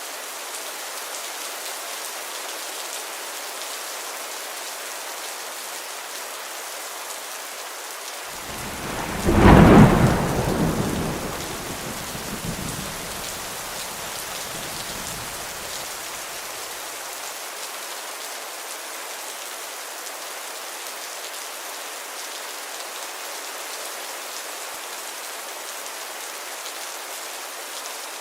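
Steady heavy rain hissing, with a thunderclap about eight seconds in that peaks within two seconds, then rumbles and fades away over the next several seconds.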